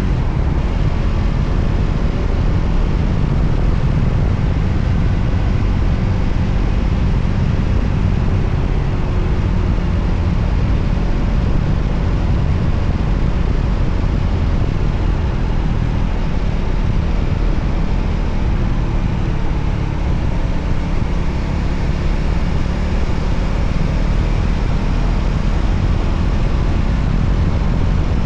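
Steady wind rumble on the microphone from riding a Voge 300ACX motorcycle, with the bike's engine running at a steady speed underneath.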